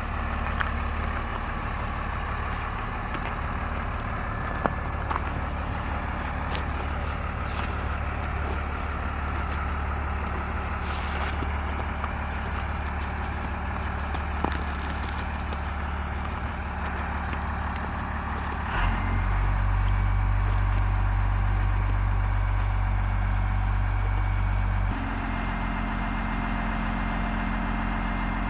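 Ford bucket truck's diesel engine running at idle with a steady low hum, plus a few sharp clicks. About two-thirds of the way through the engine note steps up and gets louder, then drops back to a lower, even note a few seconds before the end.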